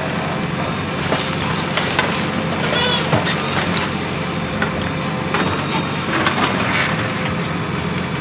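JCB 3DX Plus backhoe loader's diesel engine running steadily under work, with scattered sharp knocks and clanks over it.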